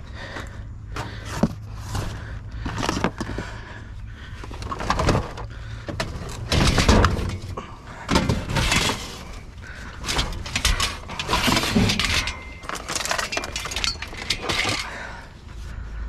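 Irregular clattering and rattling of hard junk and scrap being shifted and handled, with some sharp, glassy clinks and knocks, over a low steady hum.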